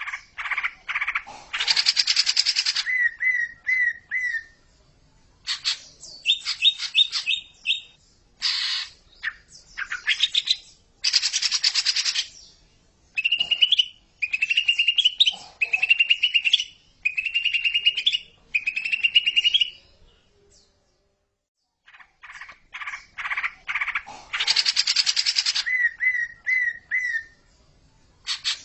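Cucak ijo (greater green leafbird) singing: rapid chattering trills and harsh buzzy notes, then a run of five rising whistled notes. After a short pause the same opening phrase comes round again, as in a looped recording.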